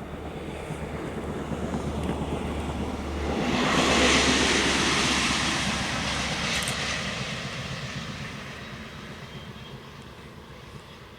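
A train passing by: the sound builds, peaks about four seconds in, and then fades away, with a low steady hum that drops in pitch as it goes past.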